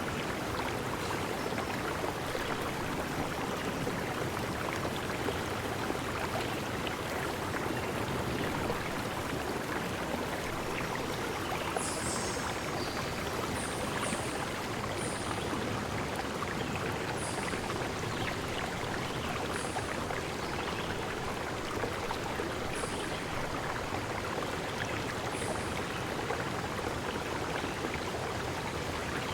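Stream water flowing steadily. From about halfway through, a bird gives short, very high chirps every one to three seconds.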